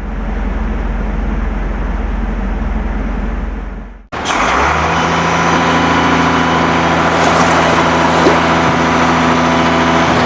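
Vehicle engine sound effects: a steady low rumble that cuts off abruptly about four seconds in, then another engine starts up and runs steadily with an even hum.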